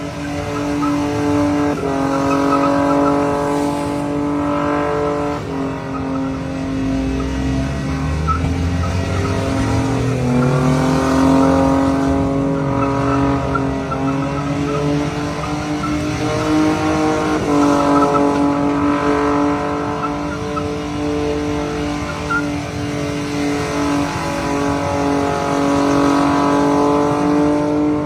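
Car tires squealing in a long, sustained howl that shifts pitch every few seconds, as in a burnout or drifting. Under it the engine climbs in pitch about a quarter of the way through.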